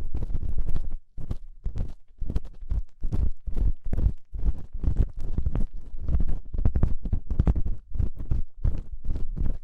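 Ear-cleaning tool scraping and rubbing inside a binaural microphone's ear, a close, irregular run of scratching strokes, several a second, meant as the sound of crunchy earwax being scraped out.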